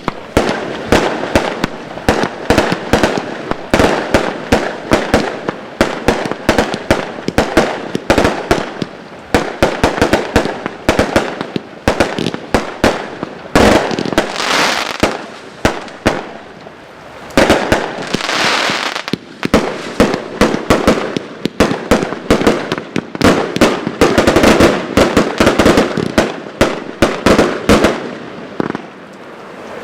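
A Geisha 1906 Colorful Explosions 111-shot compound firework cake firing in rapid succession: a steady stream of launch thumps and shell reports, several a second. Two brief hissing spells come about halfway through.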